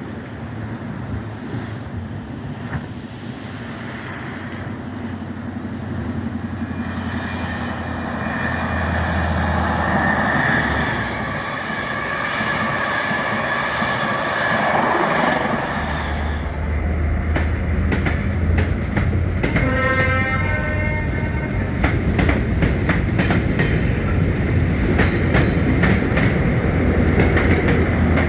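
High Speed Train with Class 43 diesel power cars running past, rising in loudness over the first ten seconds. About sixteen seconds in the sound changes to a low rumble with many wheel clicks over the rail joints, and a horn sounds briefly a few seconds later.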